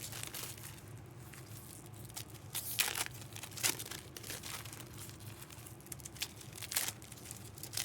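Foil trading-card pack wrappers crinkling and tearing as they are handled and opened, in a few short sharp bursts: a cluster about three seconds in and another near the end.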